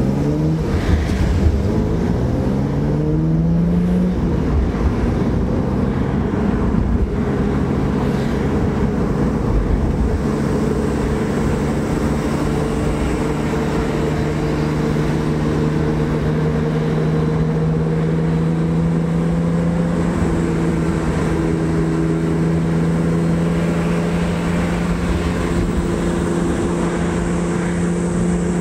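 BMW E36 M3's straight-six engine heard from inside the cabin: it rises in pitch as the car accelerates for about the first four seconds, then runs at a steady pitch while cruising, with road noise underneath.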